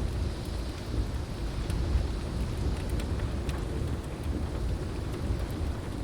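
Steady heavy rain with a low, rolling thunder rumble throughout, and a few sharp, scattered crackles from a wood fire.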